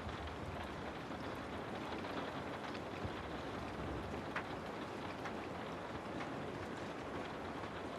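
Steady rainfall, an even hiss with scattered sharper drips and drops ticking on a surface.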